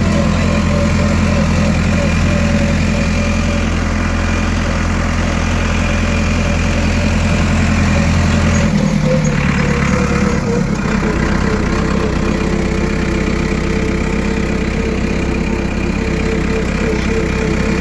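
Farm tractor engine running steadily close by. About nine seconds in, its note drops slightly as the engine slows a little.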